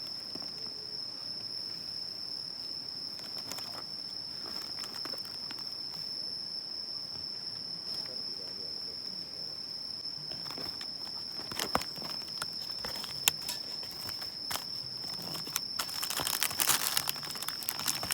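Insects droning steadily at one high pitch, with scattered clicks and rustling that grow busier near the end.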